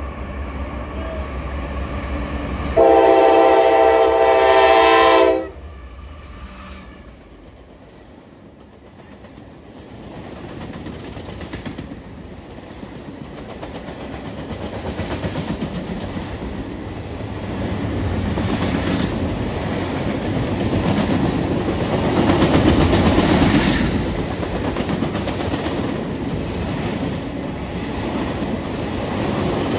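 A locomotive's multi-chime air horn sounds one long steady blast of about two and a half seconds, a few seconds in, over a low rumble. The train then draws closer and rolls past, its wheels clattering over the rail joints, louder toward the end.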